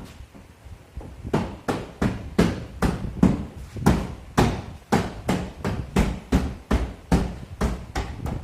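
Repeated hammer blows, about three a second, beginning about a second in and continuing steadily.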